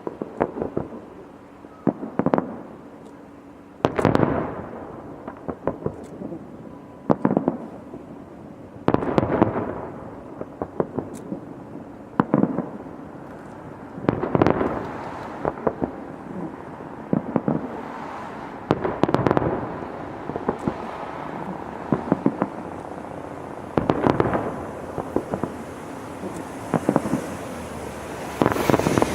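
Fireworks going off in clusters of sharp bangs and crackles, a burst every second or two, each trailing off in a short rumbling echo.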